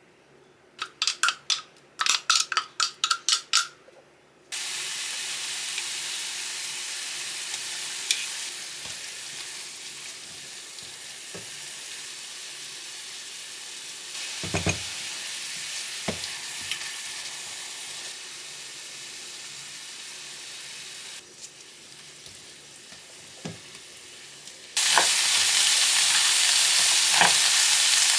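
Food sizzling in a frying pan, a steady high hiss that jumps abruptly in level twice, with a few light clicks. It is preceded by a quick run of about ten ringing taps.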